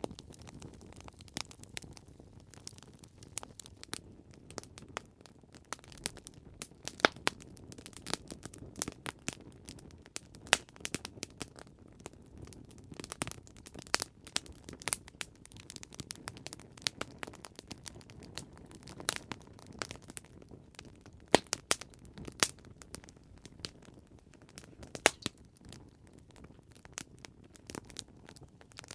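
Campfire burning with dense, irregular crackling and sharp pops of wood over a low steady rush of flame.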